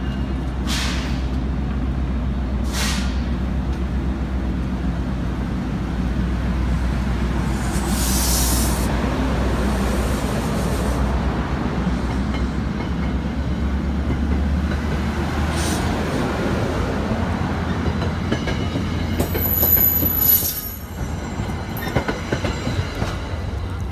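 NJ Transit commuter coaches rolling past as the train pulls out, a steady low rumble of wheels on rail broken by several brief high wheel squeals. A louder squeal comes near the end, as the last car goes by, and then the rumble drops away.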